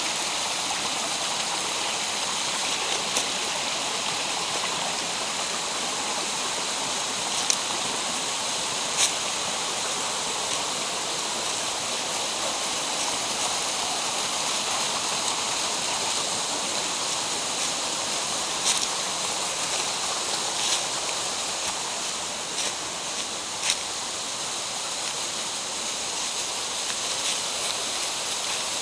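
Mountain stream rushing steadily through the gorge, with a few brief sharp taps now and then.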